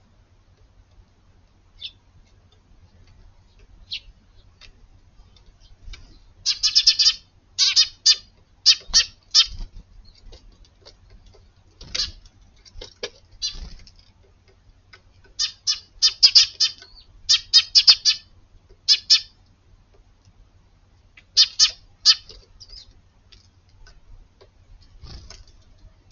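Eurasian tree sparrows chirping in quick runs of high, varied calls, not only the plain cheep, coming in several bursts with pauses between.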